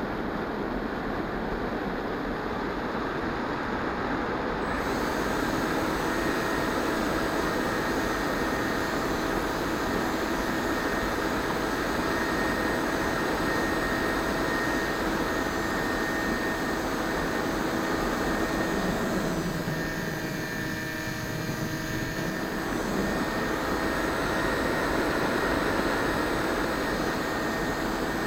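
Electric motor and pusher propeller of a Multiplex EasyStar 2 RC motor-glider in flight, giving a steady multi-tone hum over rushing air. The motor note fades briefly about twenty seconds in, then comes back.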